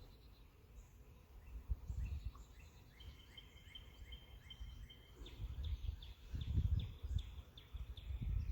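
A small bird singing outdoors: a string of short, evenly repeated chirps, then a run of quick down-slurred notes, over wind rumbling on the microphone.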